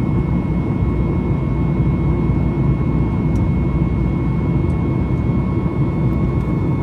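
Steady cabin noise of a Boeing 737-8 MAX with its CFM LEAP-1B turbofans under power: a dense low rumble with a steady whine on top.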